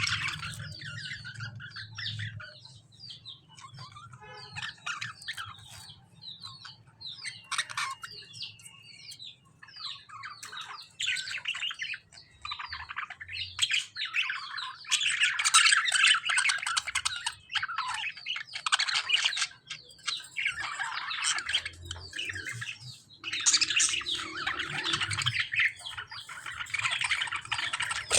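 Lovebirds and budgies calling together in a dense, high-pitched chatter that comes in loud bursts, busiest in the second half: the squabbling of birds that are fighting.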